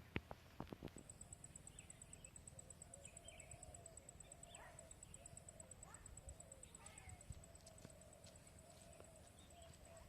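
Faint animal sounds: a high, steady pulsing trill with soft, low wavering calls, and a few sharp clicks in the first second.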